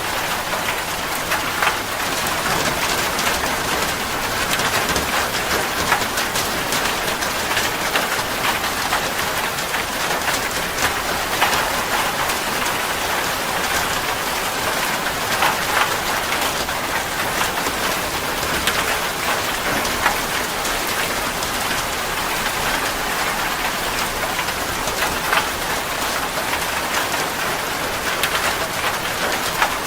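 Steady heavy rain falling on a surface, a dense even hiss with many individual drops ticking through it.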